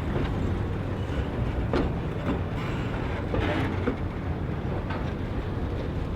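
Passenger train rolling along the track: a steady low rumble with scattered sharp knocks and clicks from the wheels and cars.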